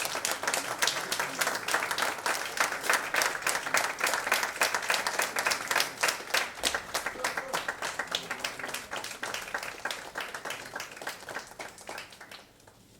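Audience applauding, a dense clapping that thins out and dies away near the end.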